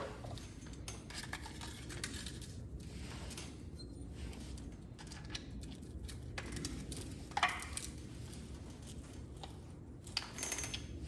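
Scattered light metallic clinks and clicks of engine parts and hand tools being handled, with a short scraping slide about seven seconds in, over a steady low hum.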